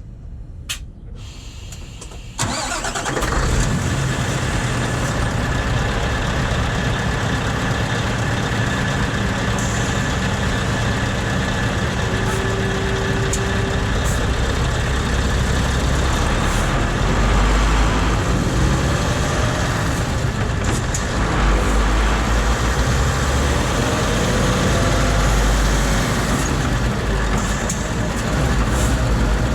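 A few clicks, then the Scania R520's 16-litre V8 diesel starts about two seconds in and settles into a steady idle.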